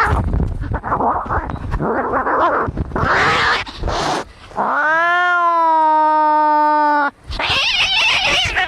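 Cats fighting: harsh, rough hissing and growling for the first few seconds, then one long yowl starting about five seconds in that rises and then holds steady. A burst of harsh screeching comes near the end.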